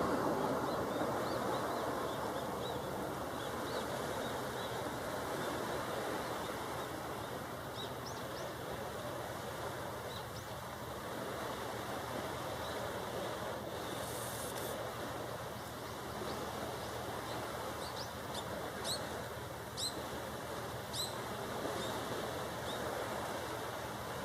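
Steady outdoor rushing noise with short, high bird chirps now and then, more of them in the second half.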